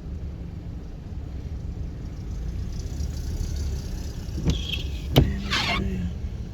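Inside a car stopped in traffic, the engine idles as a steady low rumble. A little past four seconds in comes a sharp click, then a louder one about five seconds in, followed by a short rushing sound.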